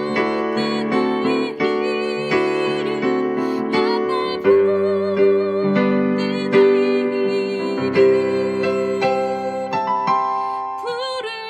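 Electric piano playing a slow hymn tune, with chords and melody notes struck every half second to a second and a slight vibrato on the sustained upper tones. It eases off and briefly drops in loudness just before the end.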